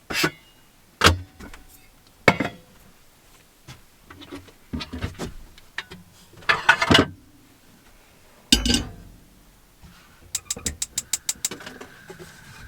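Tea being made at a camper kitchenette: several sharp knocks and clatters of handled items, a short rush of noise about halfway, then a fast run of about a dozen clicks near the end.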